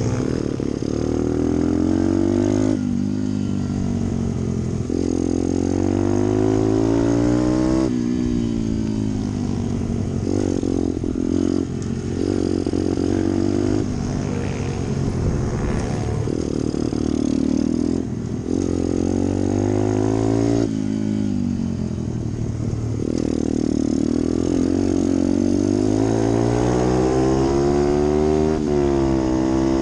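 Pit bike's small single-cylinder engine at racing speed. It revs up again and again, its pitch climbing and then dropping sharply every couple of seconds as it shifts gears and brakes into corners.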